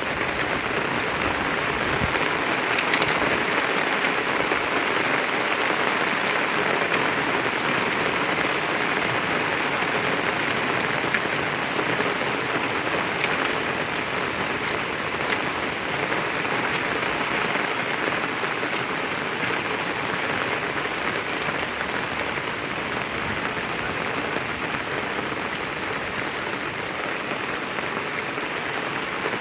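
Heavy downpour: steady torrential rain hissing and pattering on the ground and surfaces, with scattered small drop ticks.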